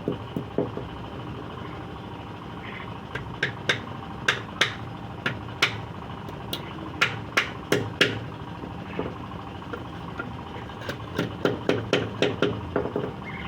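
Hammer striking wood in runs of quick, sharp blows with short pauses between.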